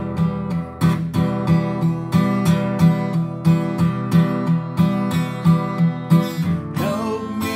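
Acoustic guitar strummed in a steady rhythm, about two to three strokes a second, playing an instrumental passage between sung lines of a slow song.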